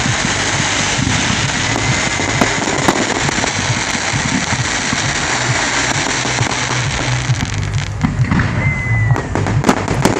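Fireworks display going off: dense continuous crackling with a short whistle twice, and sharper separate bangs in the last few seconds.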